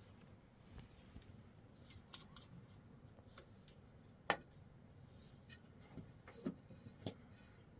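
Quiet background with a few scattered light clicks and taps, one sharper click a little past halfway.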